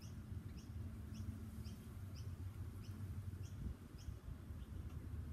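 A bird chirping in the background: short, high chirps repeated about twice a second, over a faint low outdoor rumble.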